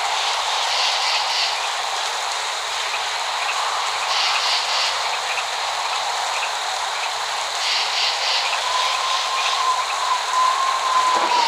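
Steady rain hiss, with a brief flurry of higher-pitched patter or chirping about every three and a half seconds. Near the end a thin whistle-like tone holds for about three seconds; no thunder is heard.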